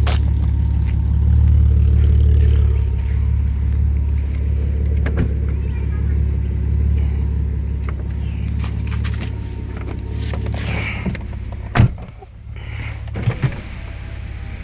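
Alfa Romeo 156's 3.0 V6 engine with a new sports exhaust running with a deep steady drone, strongest in the first few seconds and then easing off. A sharp knock comes about twelve seconds in, followed by a couple of light clicks.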